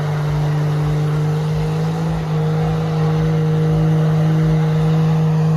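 A truck engine held at high, steady revs, loud and unchanging in pitch, with a rough pulsing low end, as in a burnout.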